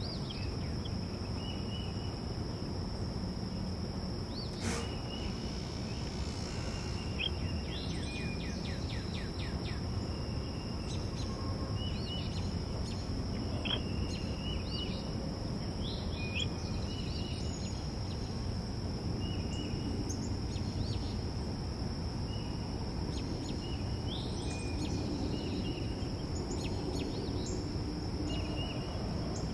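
Backyard songbirds giving short chirps scattered throughout, with a quick trill of repeated notes about six seconds in. Underneath runs a low steady background rumble and a constant high thin whine.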